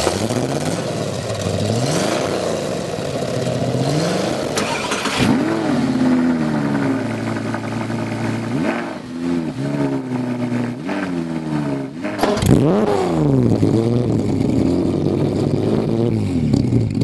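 Sports-car engines revving in turn: first a 1971 De Tomaso Pantera's 5.8-litre V8, then a 2013 Audi R8's 5.2-litre V10 blipped again and again, its pitch rising and falling with each rev.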